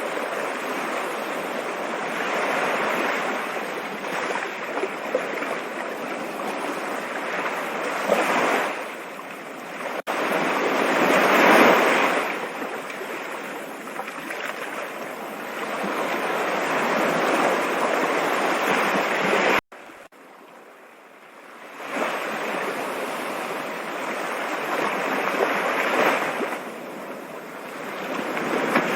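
Rushing water, an even hiss that swells and eases every few seconds. About ten seconds in it cuts out for an instant, and near twenty seconds it drops suddenly to a softer hush that builds back up over a couple of seconds, like a splice in the recording.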